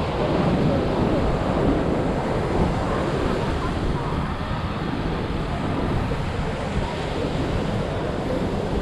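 Ocean surf breaking on a sandy beach, a steady roar with wind buffeting the microphone.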